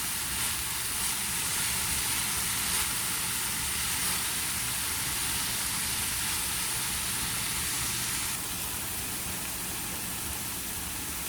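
Chicken and mixed vegetables sizzling steadily as they stir-fry in hot oil in a pan. The sizzle drops a little about eight seconds in.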